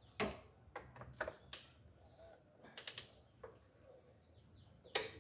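Irregular sharp clicks and taps of hand tools at work, about eight in all, the loudest near the end.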